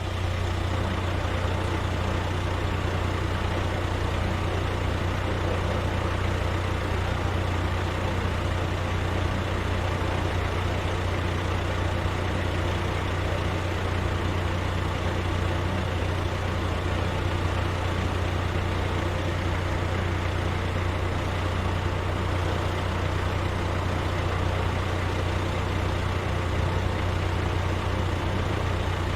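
Heavy truck engine running steadily with a deep, constant hum and no change in speed.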